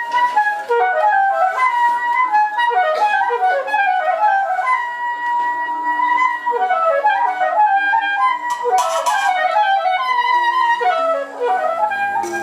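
Free-improvised music: a high wind instrument plays fast, unbroken runs of notes that swirl up and down with barely a pause. Low held tones come in underneath near the end.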